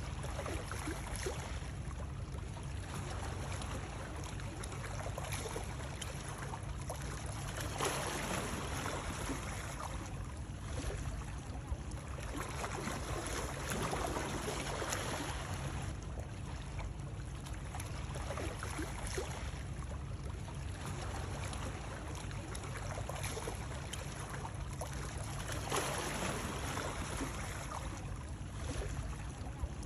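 Continuous water noise, rushing steadily and swelling a little louder every few seconds, over a low steady rumble.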